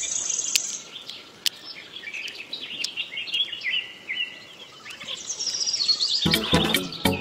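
Birds chirping and twittering: many short, high calls in quick succession, with a few faint clicks. Background music with a beat comes in about six seconds in.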